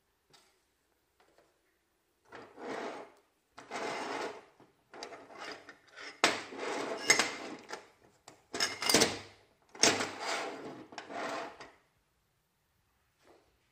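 A series of about eight short scraping or rubbing noises, each lasting up to about a second.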